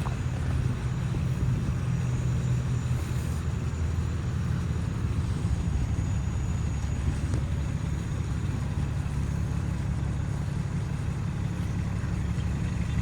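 Steady low hum of a motor vehicle's engine running, with an even drone and no breaks or changes in pitch.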